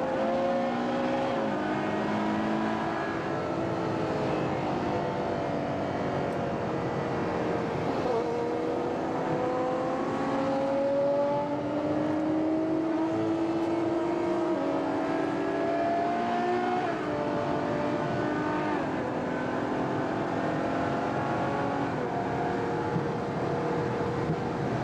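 Ferrari FF's 6.3-litre V12 heard on board while driving. The engine pitch climbs slowly, then drops suddenly at each upshift, several times over.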